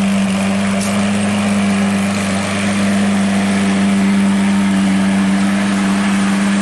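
Lamborghini supercar engine running at steady revs, giving a loud, constant droning note that does not rise or fall.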